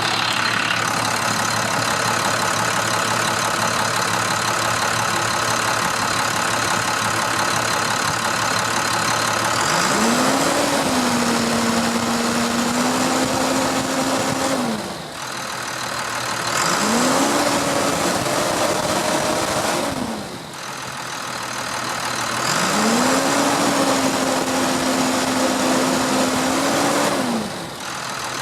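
International DT466 inline-six diesel engine idling, then revved three times, each rev held for about four seconds before dropping back to idle.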